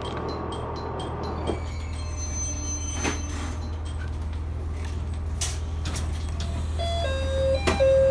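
Inside a local train easing into a station: a steady low hum, with the rushing running noise dying away about a second and a half in as it slows. A thin high squeal follows, then a few sharp knocks and clicks. Near the end comes a clear tone that steps down from a higher note to a lower held one.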